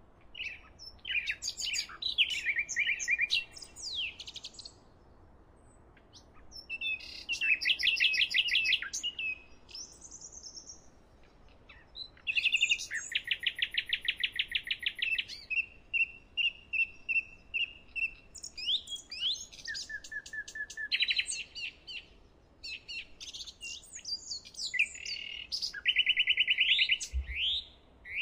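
Songbirds singing: phrases of rapid trills and chirps a few seconds long, with short pauses between them.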